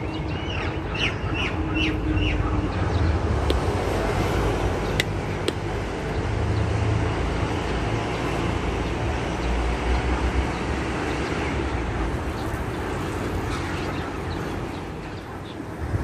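A bird gives a quick run of about five short, falling chirps in the first two seconds, over a steady low rumble that lasts throughout. Two sharp clicks follow a few seconds in.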